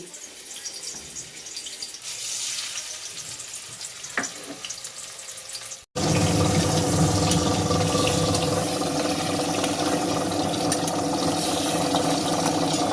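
Faint kitchen crackle with a single click, then, after a cut about six seconds in, water running steadily and loudly from a kitchen tap.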